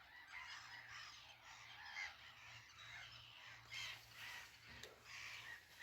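Faint, distant bird calls and song, with a few slightly louder calls about two seconds in and near four seconds.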